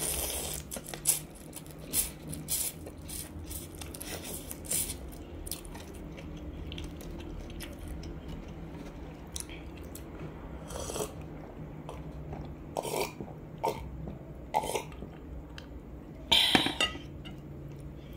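Close-miked eating sounds: chewing noodles with many wet mouth clicks and smacks, thinning out after a few seconds, then a few short swallowing sounds as a drink is taken, and one short louder mouth sound near the end.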